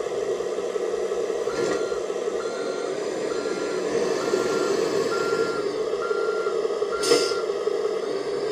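The sound module of a 1/14 scale RC Scania G540 XT dump truck playing a running truck engine with a reversing alarm: seven evenly spaced beeps, about one every three-quarters of a second, starting about a second and a half in. A short sharp burst of noise, the loudest moment, comes just as the beeps stop.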